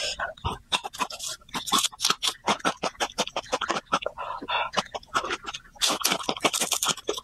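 Close-up crunchy chewing of raw garlic, a quick run of irregular wet clicks and crunches, with a noisy breath about six seconds in.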